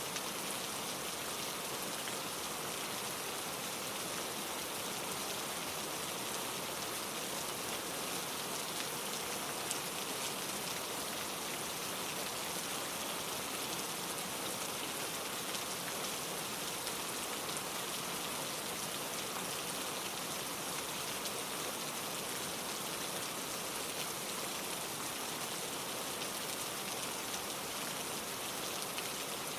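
Steady rain falling on leaves, an even hiss with faint scattered drop ticks.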